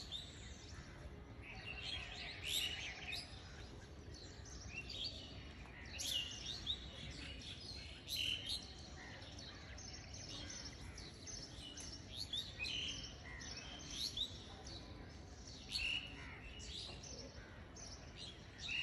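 Birds chirping, with many short, high calls scattered throughout, some in quick runs.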